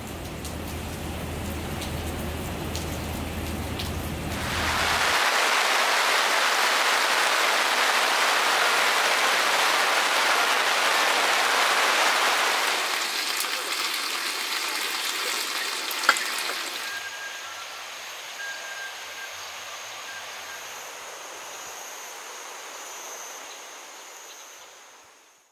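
Rain falling steadily, in a few separate shots. At first it comes over a low hum. Then it is heavier and louder for several seconds, then lighter, with one sharp tap. It fades out at the end.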